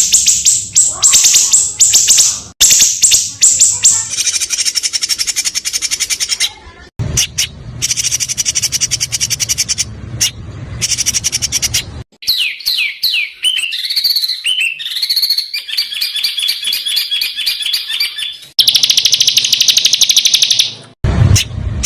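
Spliced recordings of songbirds giving rapid, harsh, machine-gun-like call series and fast trills, the "tembakan" used to train competition songbirds. Each passage cuts off abruptly and a new one begins every few seconds, and about halfway through there is a run of quick falling whistles.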